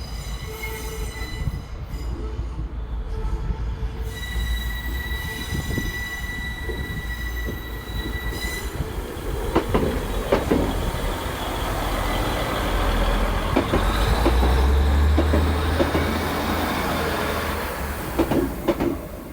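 Train moving along the track: a high, steady wheel squeal for the first eight seconds or so, then wheels knocking over rail joints under a rumble that builds to its loudest about fourteen seconds in and falls away at the end.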